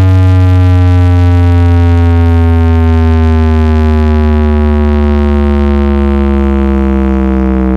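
A single deep synth bass note played very loud through a large sound system, held without a break and sliding slowly and steadily down in pitch.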